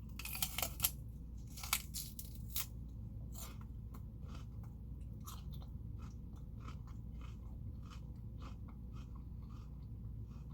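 Celery stalk with hummus being bitten and chewed: a few loud crunches in the first three seconds, then steady, softer crunching chews.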